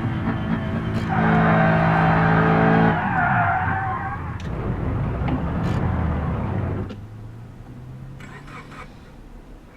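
Car engine revved hard with the gas pedal held down, a loud steady high-rev note for about two seconds, then falling back and settling to a quieter idle near the end.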